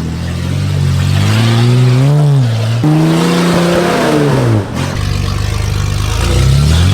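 Nissan GQ Patrol's TB42 carburettor straight-six running with no exhaust, loud and raw, revving up and down several times. It drops to a low idle about five seconds in, then revs up again near the end.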